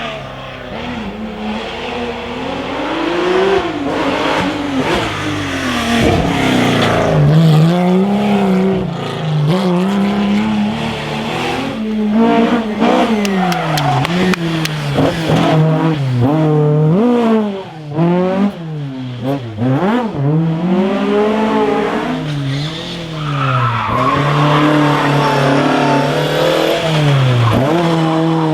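Historic rally car engine driven hard on a stage, its pitch climbing and dropping again and again through gear changes and lifts off the throttle, with a brief cut just before the middle. A short stretch of tyre squeal comes about three quarters of the way through.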